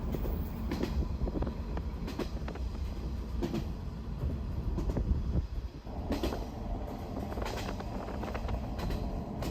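West Express Ginga night train, a converted 117-series electric multiple unit, heard from inside the carriage: a steady low rumble with irregular clicks and knocks.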